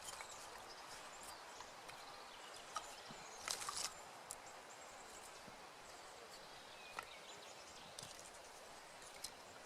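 Lighting a small campfire of sticks: a faint steady hiss with a few sharp snaps, and a short burst of crackling about three and a half seconds in.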